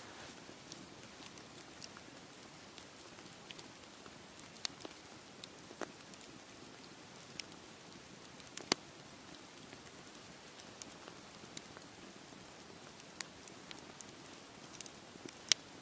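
Campfire crackling: irregular sharp pops, a few of them louder, over a steady even hiss that carries the wash of sea waves on the shore.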